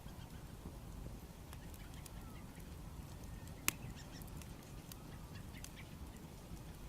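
Wood bonfire crackling, with scattered small pops and one sharp, loud pop a little past halfway, over a low rumble.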